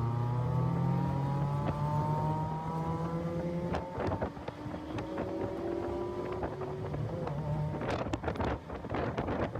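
Car engine pulling under acceleration, its pitch rising steadily, breaking off about four seconds in, then rising again through a second stretch. In the last two seconds wind buffets the microphone.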